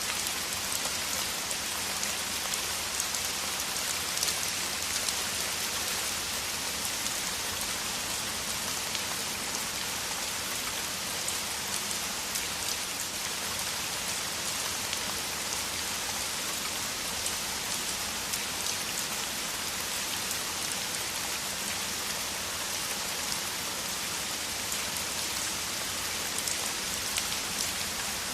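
Steady heavy rain, a dense patter of drops hitting the ground.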